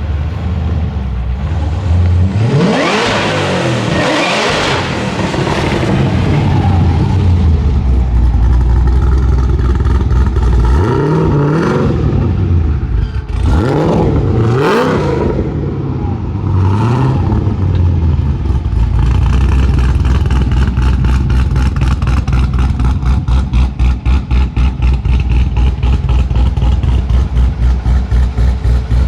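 A car engine revving and accelerating twice, with rising and falling sweeps in pitch, then running steadily with a fast, even pulse.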